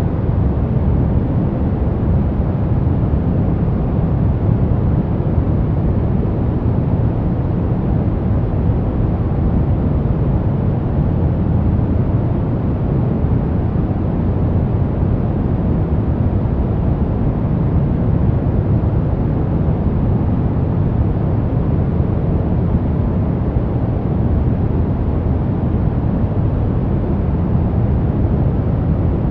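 Continuous sleep-masking noise, steady and unchanging, with most of its weight in the bass: a deep, even rush with only a little hiss on top.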